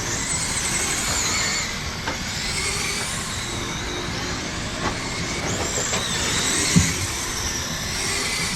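Radio-controlled race cars running laps on a dirt oval, their motors and gears whining high and rising and falling with the throttle. One short thud comes about three-quarters of the way through.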